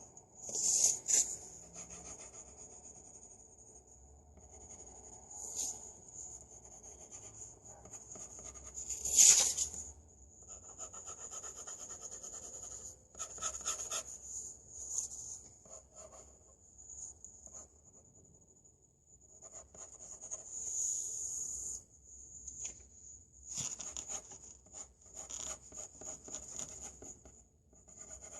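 Irregular scratchy strokes of a drawing tool rubbing on paper, the loudest about a second in and about nine seconds in, over a steady faint high-pitched tone.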